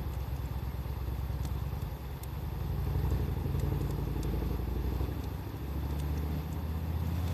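A low, engine-like rumble that swells and eases, the loudest sound, with a wood fire crackling faintly in occasional sharp pops.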